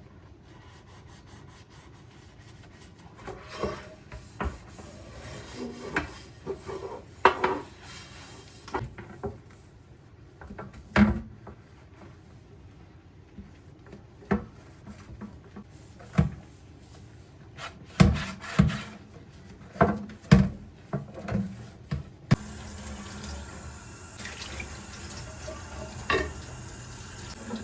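Kitchen work: scattered knocks and clinks of dishes and utensils, then a kitchen tap starts running about two-thirds of the way through, with more clatter over it.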